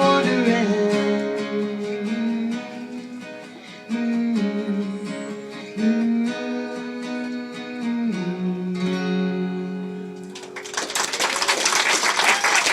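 Acoustic guitar playing the closing chords of a song, strummed chords left ringing. About ten seconds in the guitar fades and the audience breaks into applause.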